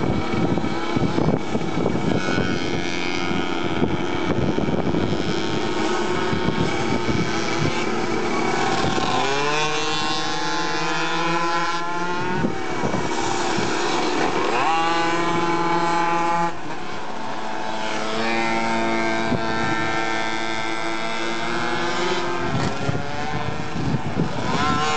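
Several small mini motorbike engines running at high revs together, their pitch climbing sharply several times as they accelerate.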